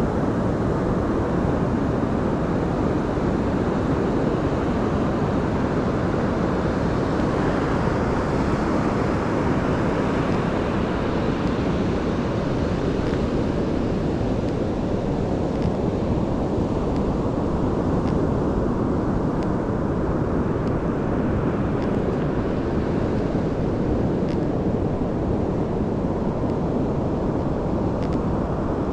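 Steady roar of Pacific Ocean surf breaking on the beach, an even rushing noise with no let-up.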